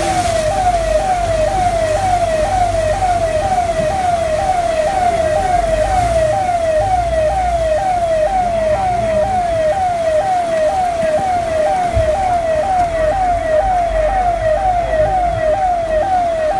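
Police vehicle siren sounding a fast, steady yelp of about two sweeps a second, over the low rumble of a vehicle.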